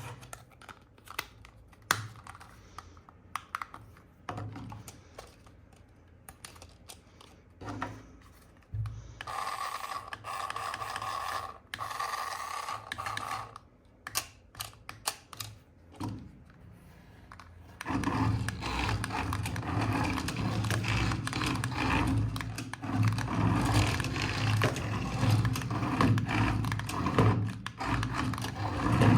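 Small scattered clicks and scrapes of a plastic RC toy being handled, then a louder steady mechanical buzz with clicking, like a small toy motor and gears running, over the last ten seconds or so.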